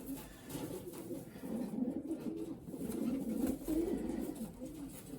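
Racing pigeons cooing, several low wavering coos overlapping one another without a break.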